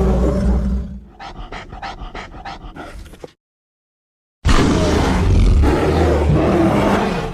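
Designed creature voice made from layered bear vocalizations: a deep roar that ends about a second in, then a quick run of short rhythmic grunts, about four a second. After a second of silence, another long roar begins.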